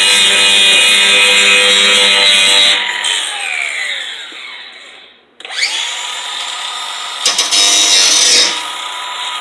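Electric power tool running at full speed, switched off about three seconds in and winding down with falling pitch, then started again, spinning up and running at a lower level, with a couple of sharp clicks near the end.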